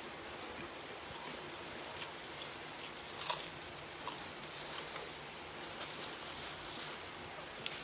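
Close-up eating sounds: a person chewing fried chicken by hand in a thin plastic glove, with scattered small clicks and crackles over a steady hiss.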